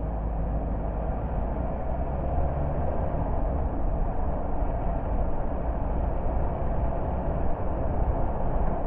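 Car driving along a road: a steady mix of engine drone and tyre and road noise.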